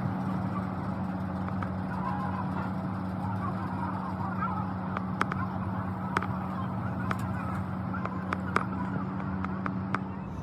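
A machine running with a steady, even drone, with sharp clicks or taps scattered through it.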